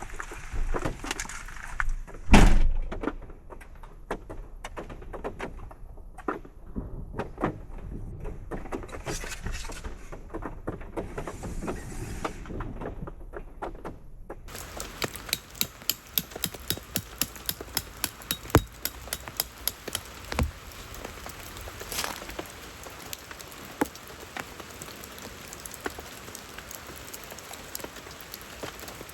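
Scattered knocks and thunks, with one loud thump a couple of seconds in. About halfway through this gives way to steady rain, with many drops tapping sharply on a surface.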